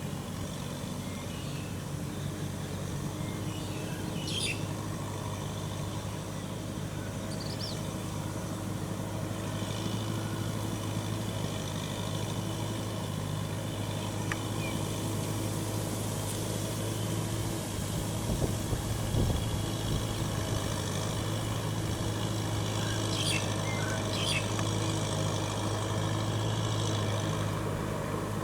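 Kubota M6040SU tractor's diesel engine running steadily, with a few brief faint high squeaks over it.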